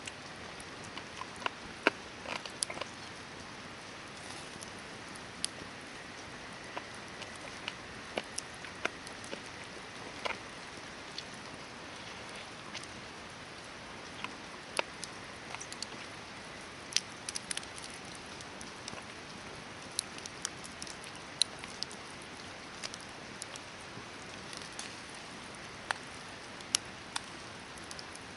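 Hardwood campfire crackling: irregular sharp pops and snaps over a steady hiss.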